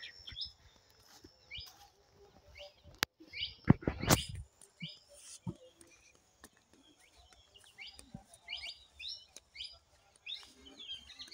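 Small birds chirping in short, scattered calls, with a few loud thumps about three to four seconds in.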